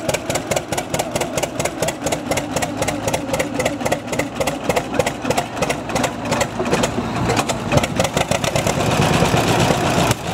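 John Deere tractor engine running with an even popping beat, about four to five pulses a second. Near the end the beat runs together and grows a little louder, as if the engine is speeding up.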